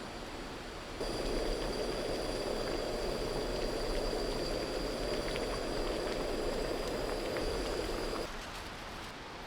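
Steady rushing rain noise that gets suddenly louder about a second in and drops back abruptly near the end, with a faint high steady tone over the louder part.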